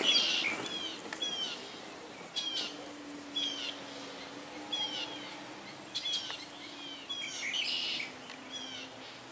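A bird calling over and over: short, high chirps that fall in pitch, roughly one a second.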